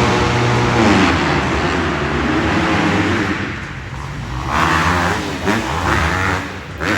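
Several motocross bikes' engines revving on a dirt track, overlapping, their pitch rising and falling as the riders work the throttle.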